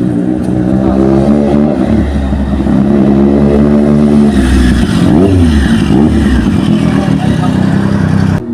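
High-performance engine exhaust, loud and revving, its pitch rising and falling several times. It cuts off suddenly near the end.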